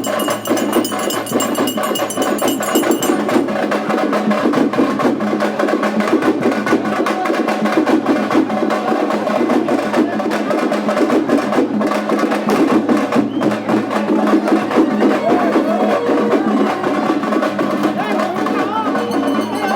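Dense, loud percussion music with drums, and voices mixed in. A high metallic ringing sounds over it for the first three seconds or so.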